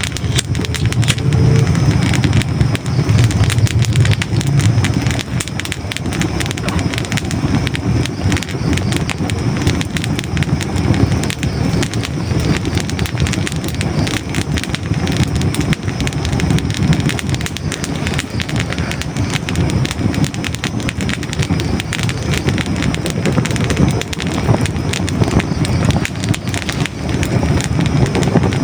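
Hardwood logs burning in a fireplace: a continuous, dense crackling with small pops over a steady low rumble of the flames.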